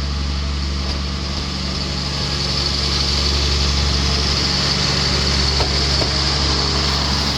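An engine idling steadily: a constant low hum with a hiss above it, unchanging throughout.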